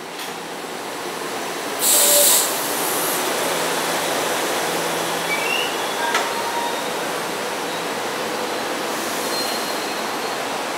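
A SEPTA GE Silverliner IV electric multiple-unit commuter train rolling into the station close alongside the platform, a steady rush of wheels and cars growing louder at first. About two seconds in there is a loud burst of hissing, and near the middle a brief faint wheel squeal.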